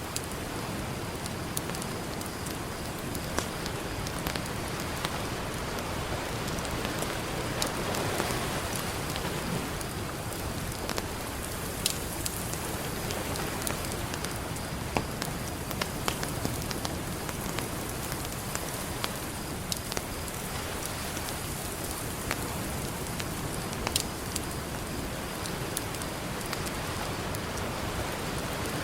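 Campfire crackling, with sharp irregular pops and snaps, over a steady wash of ocean surf that swells gently now and then.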